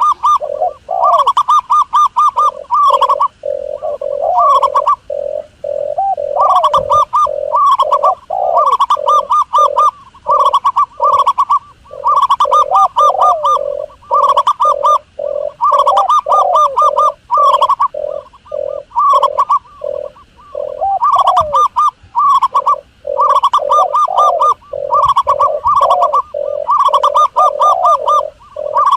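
Doves cooing in fast, trilled phrases of rapidly repeated notes, one phrase after another with only short breaks.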